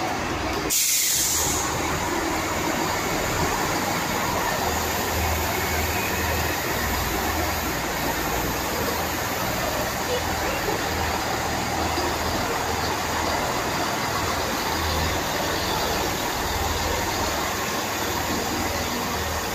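Diesel passenger train departing and running past along the platform, a steady rumble with a low pulsing engine hum. A short burst of hiss about a second in.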